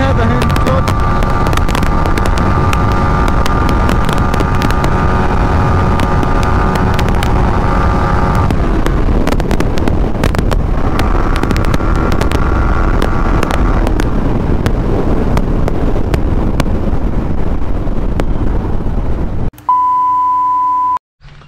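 Yamaha MT-15's 155 cc single-cylinder engine running at high revs during a top-speed run, heard under heavy wind rush on the microphone. The engine note eases off about a third of the way in and picks up again shortly after. Near the end the ride cuts to a steady test-pattern beep lasting about a second and a half.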